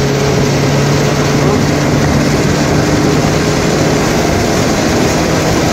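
Inside a moving car's cabin: steady engine and road noise with a low hum.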